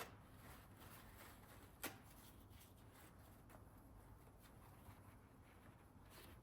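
Near silence: faint room tone with one short, light click about two seconds in.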